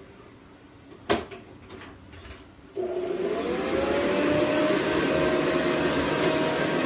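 Switch click on a vintage 1972 Eureka 2052 upright vacuum about a second in, then just before three seconds its motor starts and spins up, the whine rising in pitch for about a second before running steadily.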